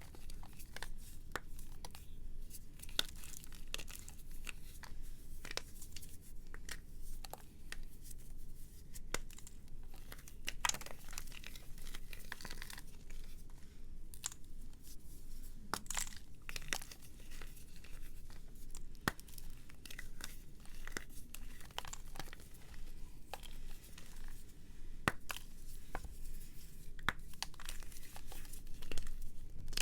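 Brittle, dry material being crushed and crumbled by hand: a continuous run of small crackles and sharp snaps.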